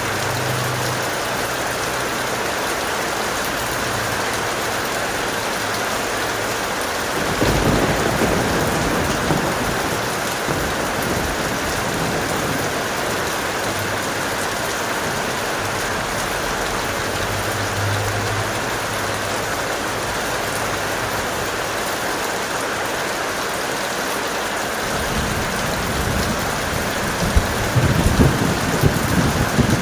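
Steady heavy rain with rolling thunder: one rumble about seven seconds in, and a longer, louder one building over the last few seconds.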